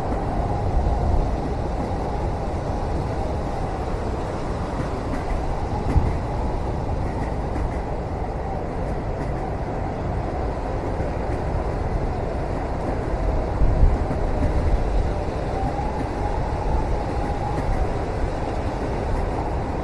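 Train running on rails, heard from inside a passenger cabin: a steady low rumble, with a louder knock about six seconds in and another about fourteen seconds in.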